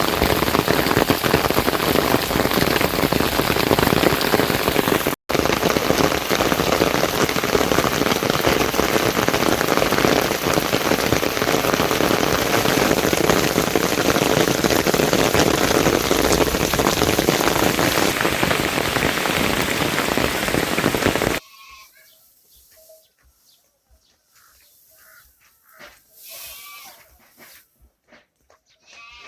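Heavy rain falling, a loud, steady, dense hiss that breaks off suddenly about 21 seconds in, leaving only faint scattered small sounds.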